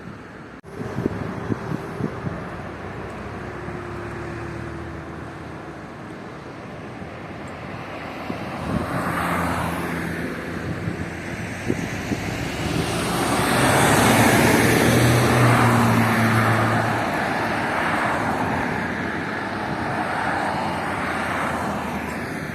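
Road traffic on a city avenue: cars driving past, with one vehicle passing close and loudest about two thirds of the way through, its engine heard as a low hum.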